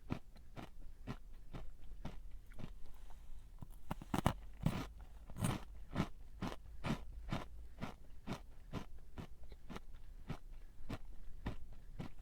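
A crunchy snack being chewed, crunching steadily at about two or three chews a second, a little louder about a third of the way in.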